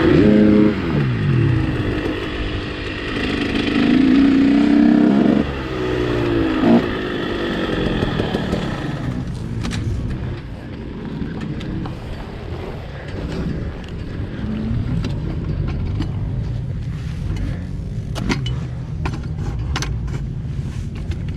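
Motocross bike engine coming off the throttle, its pitch falling, with a couple of short throttle blips a few seconds in. After that it settles to a low idle or rolling rumble, with a few sharp clicks and knocks near the end.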